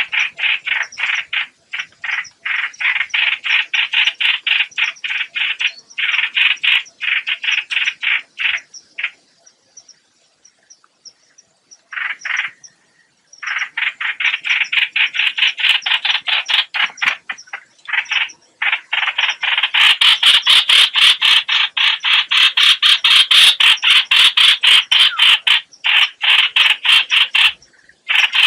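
Lure recording of the bird Vietnamese trappers call 'hoạch hoạch', calling in a fast run of short, harsh repeated notes, several a second. It breaks off for a few seconds near the middle, then comes back louder and harsher about two-thirds of the way through.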